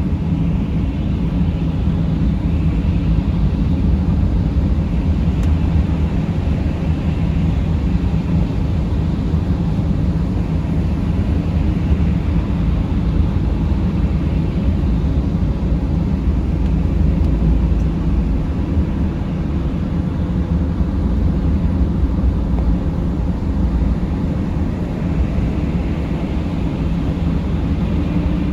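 Mercedes Sprinter van driving: a steady low engine and road rumble that stays even throughout.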